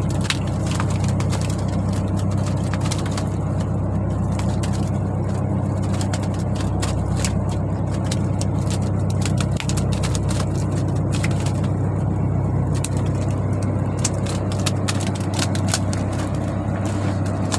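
Fishing boat's engine running steadily, with scattered clicks and knocks on top.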